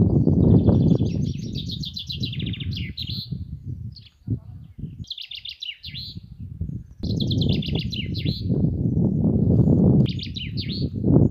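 A songbird singing four short phrases of fast, trilled notes, each ending in a quick flourish, a couple of seconds apart. Under it is a loud, fluttering low rumble that fades out for a few seconds in the middle and then returns.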